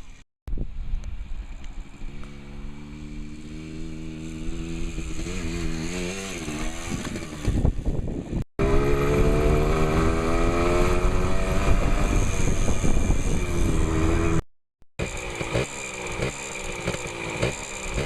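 Small motorbike engine revving and accelerating, its pitch climbing through the gears and dropping as it eases off, with the sound cutting off abruptly twice. Near the end it runs unevenly in quick pulses.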